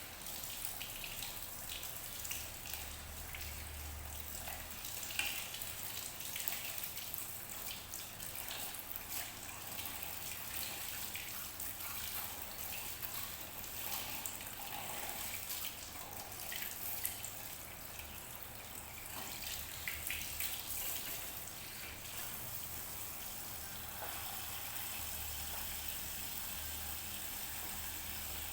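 Water trickling and splashing steadily, with many small irregular drips and spatters.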